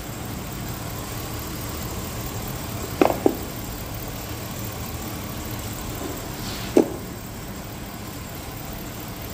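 Chevy Suburban engine idling steadily. There are three sharp knocks: two close together about three seconds in and one more near the end.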